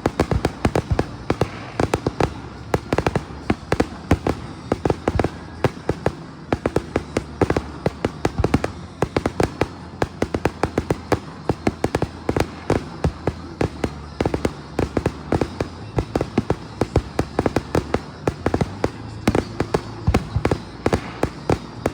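Fireworks exploding in rapid succession: a dense, continuous string of sharp bangs and crackles, several a second, over a steady low hum.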